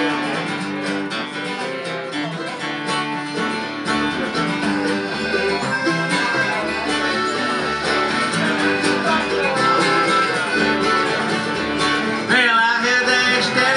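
Live band playing a song's instrumental intro, led by strummed acoustic guitar. A low bass part joins about four seconds in, and a voice comes in near the end.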